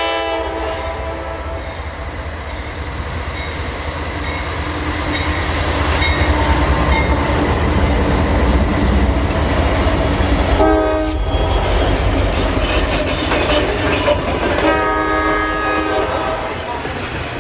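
Norfolk Southern train passing, its wheels and cars rumbling steadily and growing louder toward the middle. The locomotive horn sounds a chord three times: one blast right at the start, a short one about 11 seconds in and a longer one about 15 seconds in.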